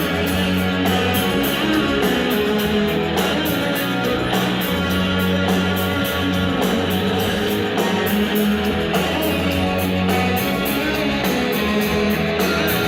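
Live band playing an instrumental break in a rock song: guitars strummed over steady bass and drums, with no singing.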